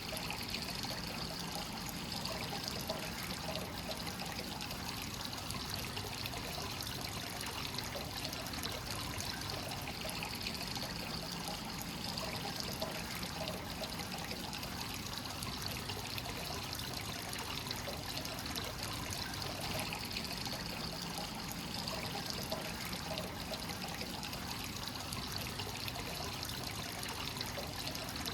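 Free-flowing hot spring water pouring and trickling steadily into a bath.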